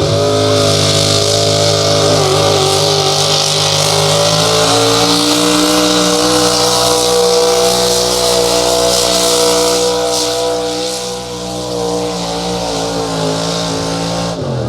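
Pulling vehicle's engine held at high revs, a loud steady engine note with heavy hiss above it. The pitch sags slightly about ten seconds in, as if the engine is bogging under load near the end of the pull.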